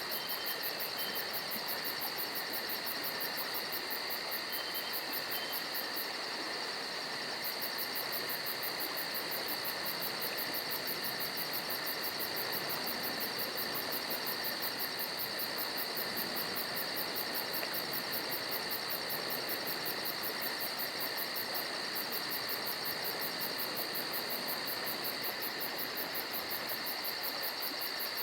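Crickets chirping: a steady, continuous high trill with a very fast, even pulsing over a hiss of night ambience. It is the stock crickets effect used in comedy to mark an awkward silence.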